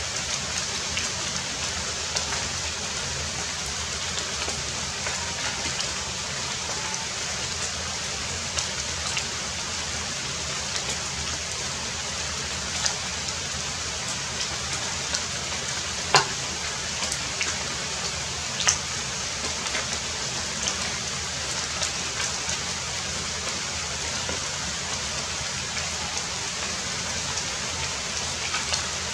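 Heavy rain falling steadily, with scattered sharp drop impacts, two of them louder, one about halfway through and one a few seconds later.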